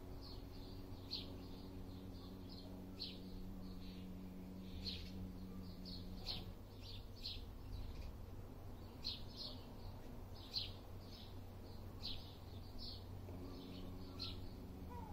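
A small bird chirping outdoors: short, high chirps at irregular intervals, roughly one or two a second, over a faint steady low hum.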